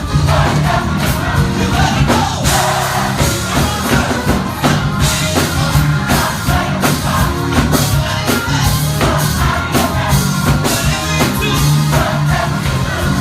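Live gospel choir singing with a full band, bass and drums playing a steady beat.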